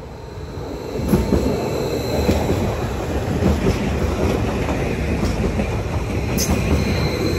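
Greater Anglia Class 755 bi-mode multiple unit running into the station, a steady rumble of wheels and running gear that swells about a second in, with a few sharp clicks.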